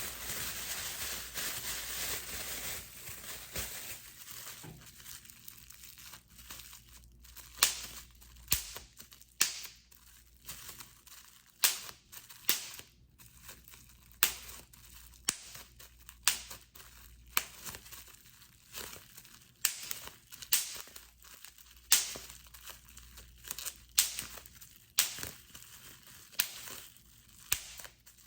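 Plastic bubble wrap crinkled and rustled in the hands, then bubbles popped one at a time, a sharp pop about once a second.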